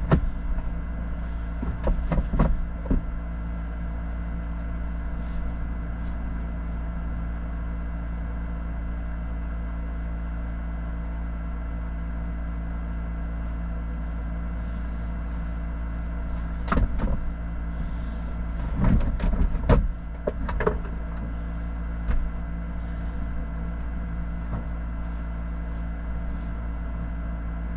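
4x4 engine idling steadily, with a few clusters of knocks and clunks in the first few seconds and again about two-thirds of the way through.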